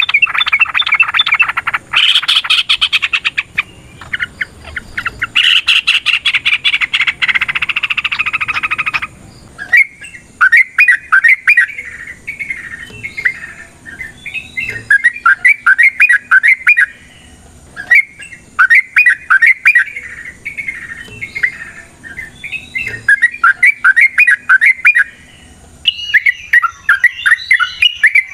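Yellow-vented bulbul (trucukan) singing. For about the first nine seconds it calls in a long, dense, rapid chatter. After that the song breaks into repeated bubbly phrases of quick notes, each a second or two long, with short pauses between them.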